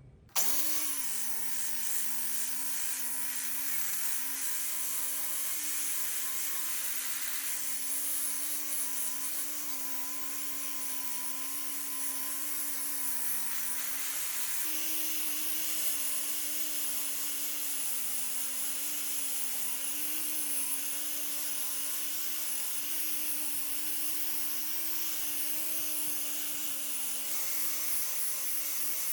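An electric power tool switches on and runs steadily, its motor pitch wavering slightly and stepping up a little about halfway, over a strong high hiss of the work being ground or sanded.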